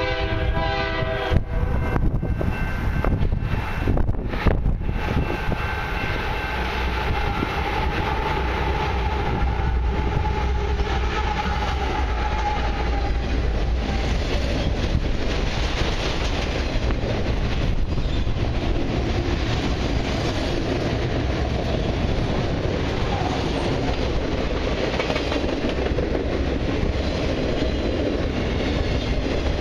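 Freight train horn sounds briefly about a second and a half at the start. Then a GE diesel locomotive and a long string of autorack cars roll past close by: a deep rumble with a steady whine over it for several seconds, followed by the continuous rumble and clatter of steel wheels on the rails.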